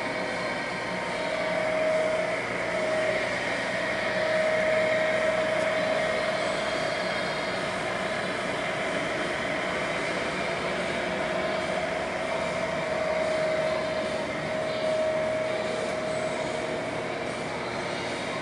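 Takisawa TAL 560 engine lathe running, its spindle and gearbox giving a steady mechanical whir with a whine that fades in and out.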